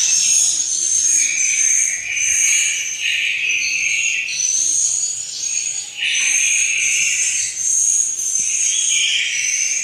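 Swiftlet calls: dense, high-pitched chirping twitters repeating in short phrases without a break.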